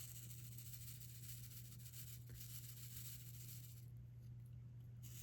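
Quiet room with a steady low hum, and a faint tick or two from a diamond painting drill pen working on the canvas.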